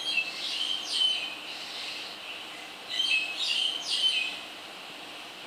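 A songbird singing: two short phrases of quick, high, falling chirp notes, one at the start and another about three seconds in.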